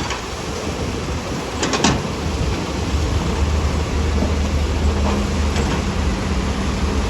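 Heavy earthmoving machinery's diesel engine running with a steady low hum that grows stronger about two to three seconds in, with a quick cluster of sharp clicks just under two seconds in.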